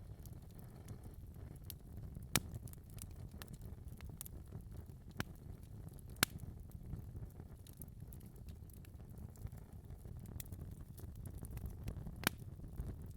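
Wood fire burning in a fireplace: a steady low rumble of the flames with scattered sharp crackles and pops, three louder pops standing out.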